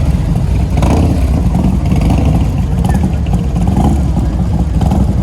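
Motorcycle engines running, a heavy, steady low rumble.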